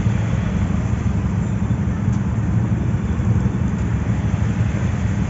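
Steady low rumble of wind on the microphone and a vehicle engine while riding along a road.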